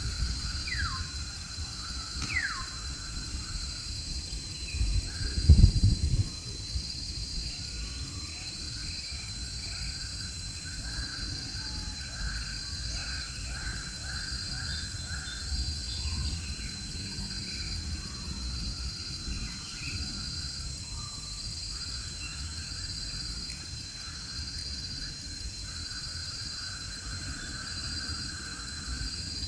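Crickets and other insects chirping in a steady, evenly pulsing chorus. Two quick falling whistle-like notes come about one and two and a half seconds in, and a brief low rumble about five to six seconds in.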